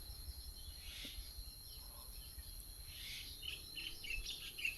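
Quiet outdoor background with faint birds chirping: a quick run of short high chirps comes in during the last second or two, over a thin steady high tone.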